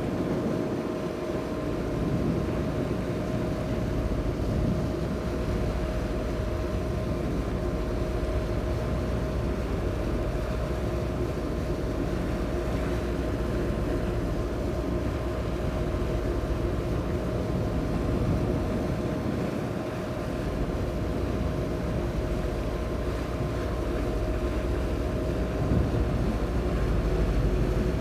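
Engines of the high-speed passenger ship Sun Liner 2 running steadily under way, a constant drone with a steady hum over low wind rumble on the microphone.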